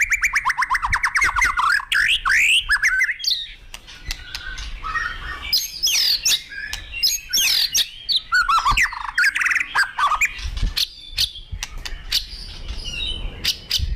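White-rumped shama (murai batu) singing in an agitated, full-voiced way. A fast run of repeated high notes fades out about a second in. Varied loud whistled phrases follow, with rising and falling sweeps and sharp clicks between them.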